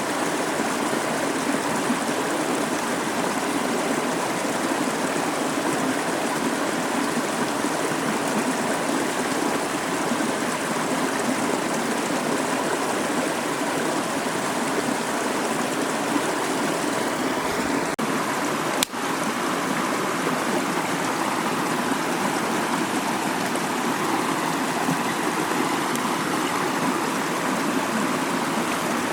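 Mountain stream flowing, a steady rush of water, with a brief break about two-thirds of the way through.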